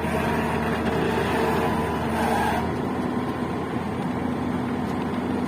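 Diesel engine of heavy earthmoving machinery running steadily, with a brief hiss about two seconds in.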